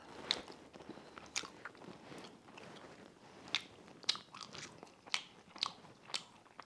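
A man chewing the last bite of a homemade egg McMuffin with turkey bacon, faint, with sharp wet mouth clicks and smacks at irregular intervals.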